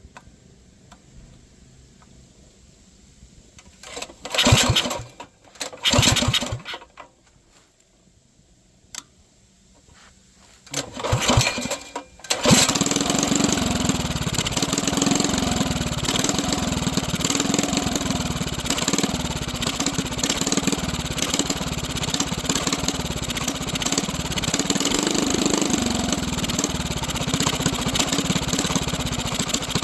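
Small mini bike engine being started: three brief sputtering bursts that die out, then it catches about twelve seconds in and keeps running steadily.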